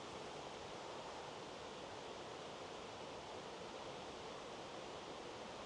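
Steady, even rushing of a waterfall heard from a distance, a constant wash of falling water with no distinct events.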